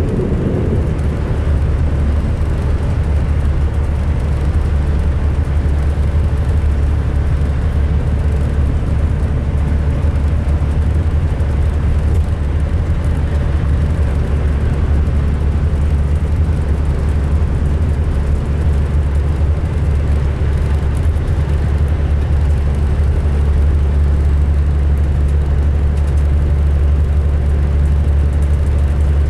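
2005 MCI D4500 coach's diesel engine running steadily under way, a low rumble with road noise over it; the uploader calls this coach rough-sounding when running.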